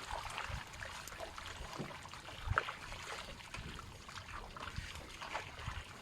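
Water sloshing and trickling, with scattered light clicks and knocks; one sharper knock about two and a half seconds in.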